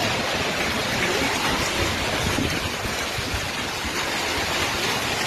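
Hailstorm with heavy rain: hailstones and rain falling hard, a dense, steady rush of noise with no let-up.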